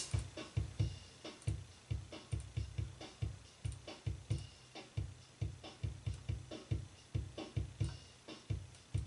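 Playback of a raw acoustic drum-kit recording: a steady beat led by repeated kick-drum thumps, several a second, with fainter snare and cymbal hits above.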